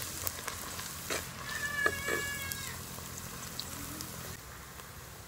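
Onions and dried red chillies sizzling in oil in a clay pot, stirred with a perforated metal ladle that knocks and scrapes against the pot a few times. Near the middle a steady high-pitched whine lasts about a second, and the sizzle grows quieter near the end.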